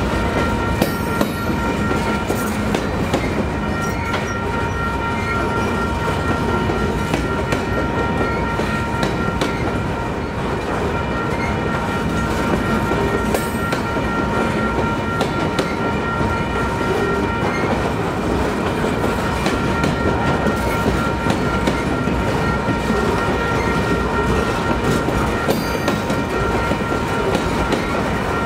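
Freight train rolling by: a continuous rumble of railcars, with now and then a sharp click of wheels over rail joints and a steady high whine.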